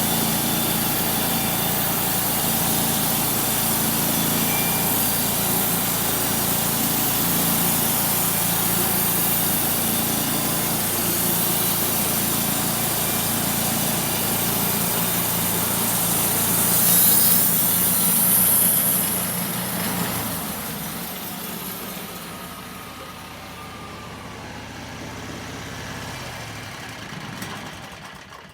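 Homemade sawmill's engine running steadily under load as the blade saws through a walnut log, swelling briefly louder about two thirds in, then winding down and quieting over the last several seconds until it stops near the end.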